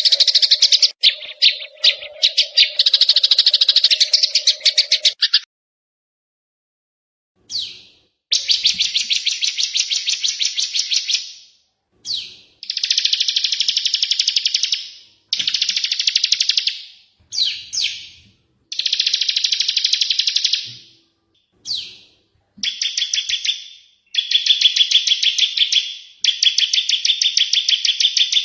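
Small songbirds chattering in very fast, dry trills: a first trill over a low steady tone for about five seconds, then after a short silence a series of rapid chattering phrases, each two to three seconds long with brief breaks between.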